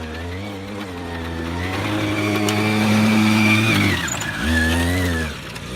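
Small motorbike engine under throttle, growing louder as it revs and climbs, then dropping off the throttle about four seconds in, giving a short burst of revs and easing off again near the end.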